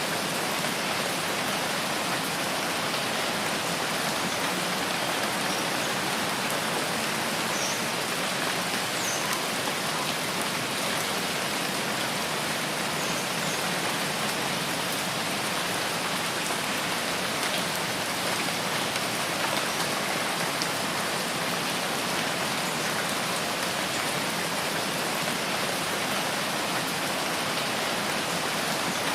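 Steady rain falling, an even unbroken hiss with no let-up.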